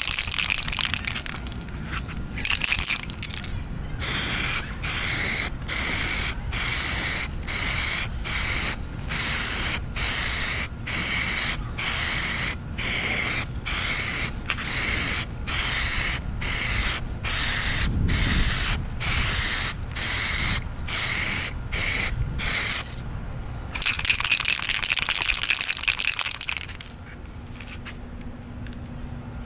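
Aerosol can of SprayMax 2K clear coat hissing as a heavy coat goes on in short even bursts, about one a second, with longer sprays at the start and near the end.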